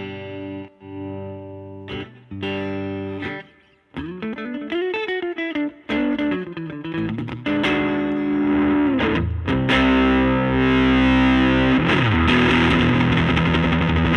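Electric guitar with P90 pickups played through the overdriven gain channel of a Laney Lionheart L5 Studio tube amp into a 15-inch Jensen Alnico speaker. A few ringing chords give way to bent single lead notes, then thick, louder sustained distorted chords near the end. The tone is dark enough that the player finds it a little too muddy.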